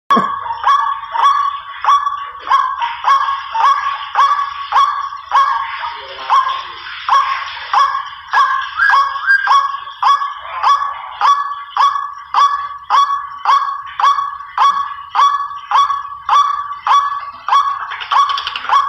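White-breasted waterhen's 'ruak-ruak' call, a hunters' lure recording: harsh croaking notes repeated steadily at about two a second.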